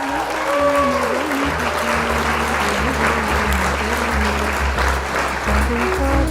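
Audience applauding over band music at the start of a live song, with steady bass notes underneath.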